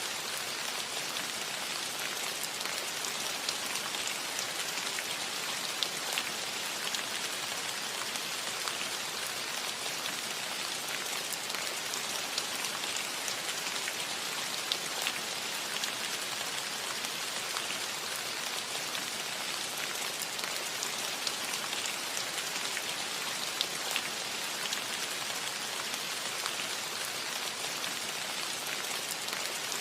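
Steady rain falling on a metal roof: an even hiss with the fine ticks of single drops striking the sheet metal here and there.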